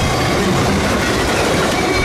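Freight train cars rolling past on steel rails: a steady, loud rumble and clatter of wheels on track, with a faint high wheel squeal.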